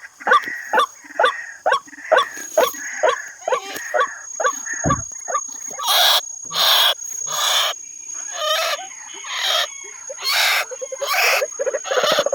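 White-breasted waterhen calls: a rapid series of short, repeated hooting notes, about three a second. In the second half they give way to harsher, noisier bursts.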